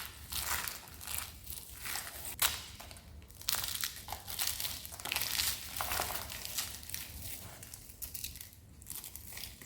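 Crisp soap being crushed, a run of irregular crunches and crackles with a short lull near the end.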